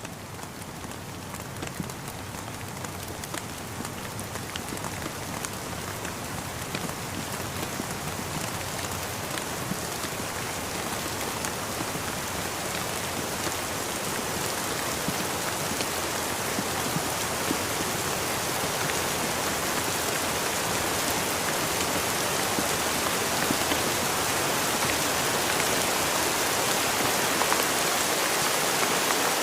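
Steady rain falling, with many individual drops tapping, growing gradually louder.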